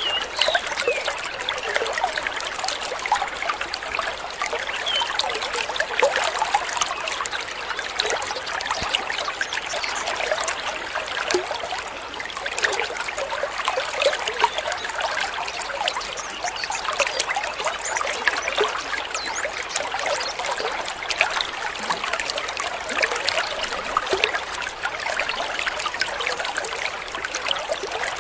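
Shallow water trickling and babbling steadily, a dense patter of small splashes.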